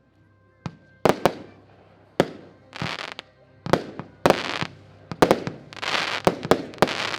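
Xplode Rumble 19-shot firework battery (cake) firing its shots in fairly quick succession. It makes a rapid string of sharp bangs, about two to three a second, with noisy stretches between some of them.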